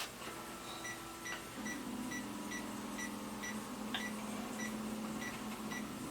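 Rinnai tankless water heater's controller beeping rapidly, short high electronic beeps about two a second, after being powered on. A low steady hum comes in about one and a half seconds in.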